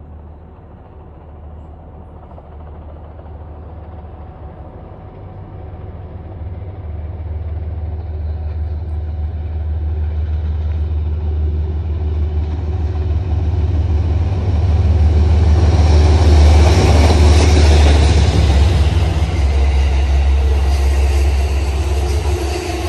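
A train approaching and passing close by, its low rumble and wheel-on-rail noise building steadily to loudest about two-thirds of the way through, then easing slightly.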